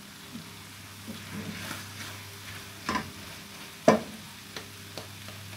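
A cooking utensil stirring mashed potatoes in a pan on the heat, with a few sharp knocks of the utensil against the pan. The loudest knock comes about four seconds in.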